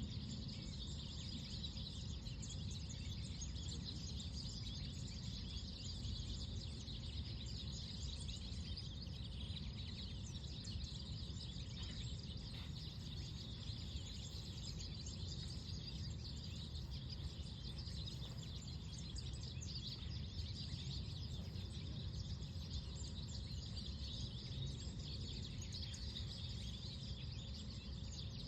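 Many small birds chirping continuously over a steady low rumble of wind.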